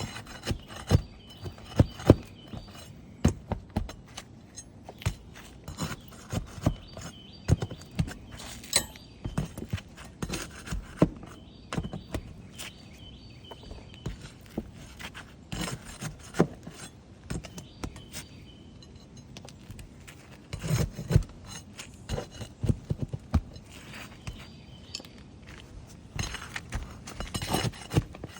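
Asphalt roof shingles being unsealed and pried up by hand for a repair: irregular scrapes, clicks and knocks of tools and shingle tabs, with busier stretches about three quarters of the way through and near the end.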